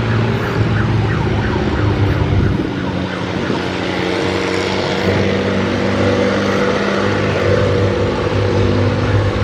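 Vehicle engine running steadily with a constant low pitch and a steady higher tone over it.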